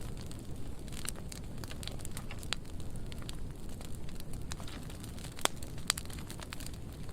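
Burn pile of dry pruning wood burning: a steady low rush of flames with irregular sharp crackles and pops, two louder pops a little past halfway.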